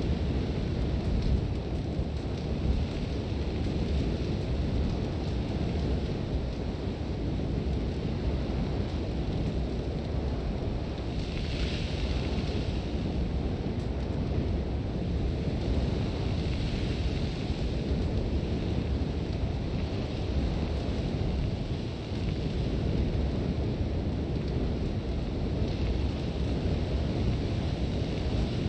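Sandstorm wind: a steady low rumble of strong wind with blowing sand hissing above it. The hiss swells in gusts about a third of the way in, just past halfway, and again near the end.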